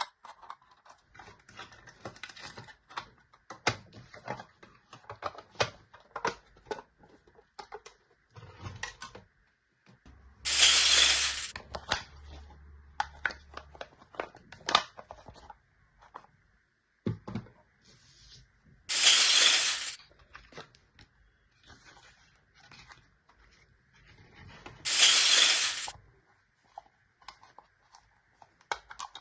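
Small plastic toy kitchen pieces and their packaging being handled: scattered light clicks and taps, with three louder noisy rustles of packaging, each about a second and a half, roughly a third of the way in, about two-thirds in and near the end.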